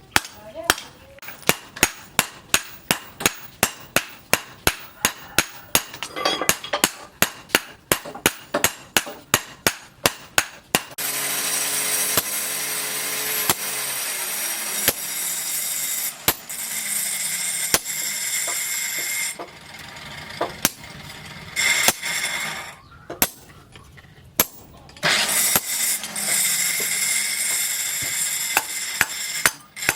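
Hammer blows on steel, about three a second, for roughly the first eleven seconds. Then a steady, loud machine noise runs with short pauses, and the hammering starts again near the end.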